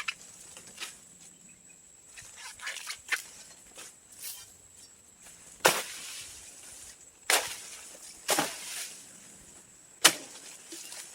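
Sharp knocks or snaps: four loud strikes spaced irregularly over the last half, with lighter crackling and rustling between them.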